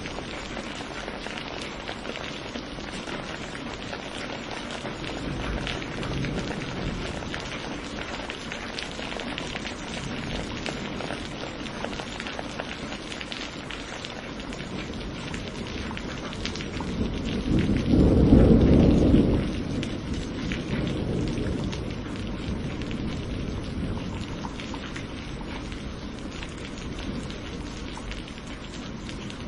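Steady rain falling, with a roll of thunder that swells about seventeen seconds in, is loudest for a couple of seconds, then rumbles away.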